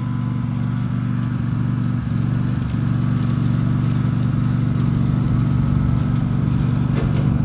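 Engine of a mower running steadily under load, growing a little louder.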